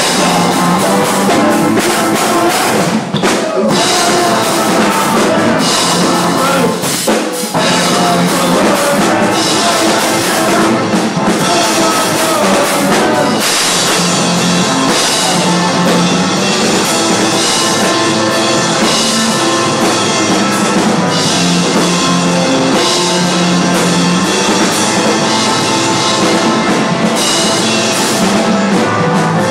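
Live rock band playing loud and steady, drum kit driving.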